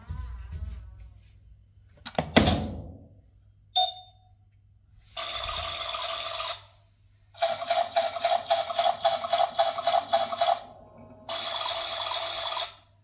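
Toy washing machine's electronic sound effects through its small speaker: a short beep, then a shrill electronic tone that plays steady, switches to a rapid pulsing warble for about three seconds, then goes steady again. A loud knock comes about two seconds in, before the beep.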